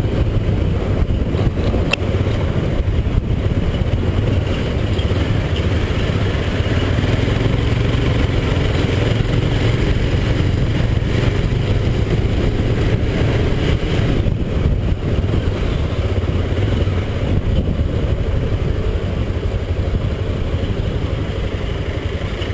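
Honda CBX 250 Twister's single-cylinder engine running steadily with the bike under way, heard from the pillion seat alongside road and wind noise.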